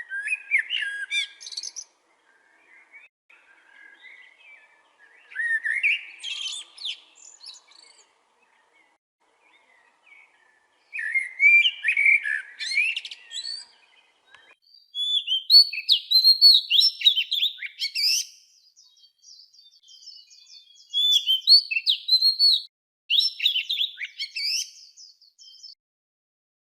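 Songbirds singing: about six bursts of quick chirps and whistled notes with short pauses between them, the later phrases higher-pitched.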